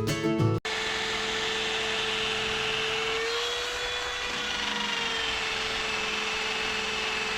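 Electric power sander running steadily on fender body filler, a constant motor whine over a hiss of abrasion, rising slightly in pitch about halfway through and settling back. A short snatch of music is cut off abruptly just after the start.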